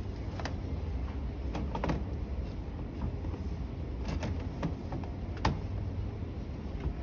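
Steady low hum with scattered short clicks and knocks, about seven in all, the loudest about five and a half seconds in.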